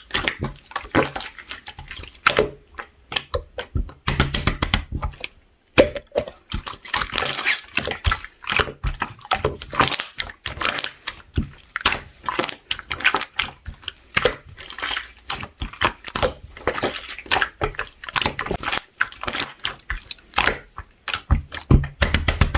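Hands squishing and working a mixed clear slime, giving dense, irregular wet clicks and pops.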